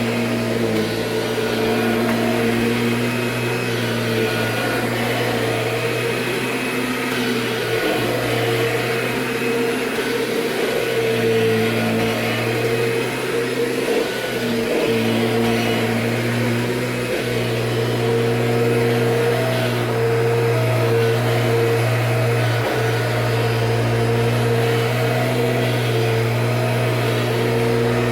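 1998 Kirby Generation 5 upright vacuum running with a steady motor hum, its pitch shifting slightly a few times.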